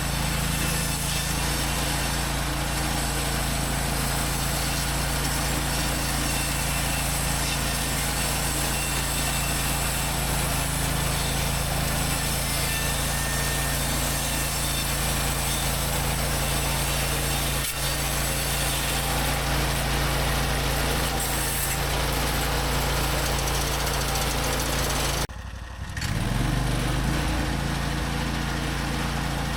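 Hud-Son HFE-33 portable bandsaw mill running steadily, its engine driving the band blade through a log. The sound drops out briefly near the end, then picks back up.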